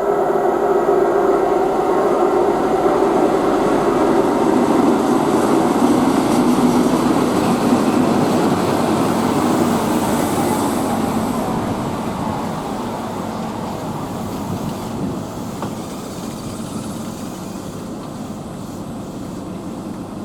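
Class 43 HST power car's diesel engine running as the train comes into the station, with a steady droning note that drops in pitch partway through. A faint high squeal comes about ten seconds in, and the sound then slowly fades.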